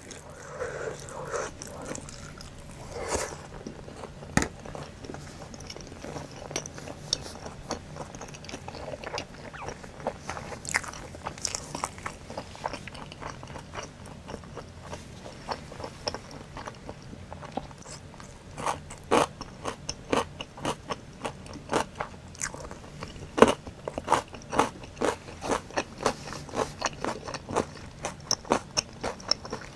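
A person chewing food, with a stream of short sharp chewing clicks that come faster and louder in the second half.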